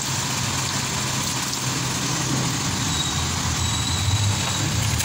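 Suzuki K6A three-cylinder engine idling steadily, running again after its camshaft was replaced with the correct one.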